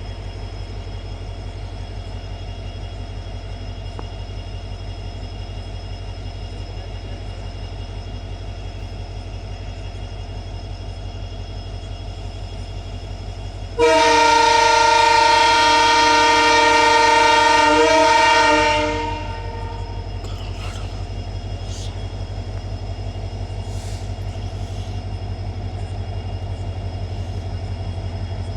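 Indian Railways WDP4D diesel locomotive idling with a steady low, pulsing rumble. About 14 seconds in, a loud multi-tone locomotive horn sounds for about five seconds, then the idle carries on alone.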